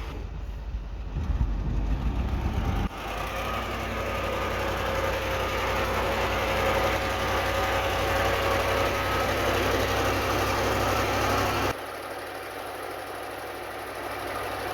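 Diesel engine of heavy earthmoving machinery running steadily, with a steady whine over it for most of the time. The sound changes abruptly about three seconds in and again near the end.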